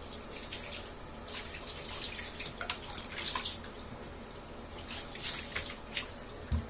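Tap water running and splashing unevenly as a soapy kitten is rinsed in a bath, with a soft thump near the end.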